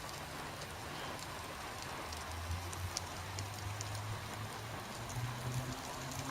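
Steady background hiss with a faint low hum that steps up in pitch, and a few light ticks.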